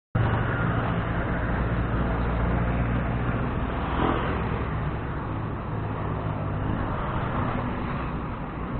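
A motor vehicle engine running close by, a low steady hum with road noise. It cuts in suddenly at the start.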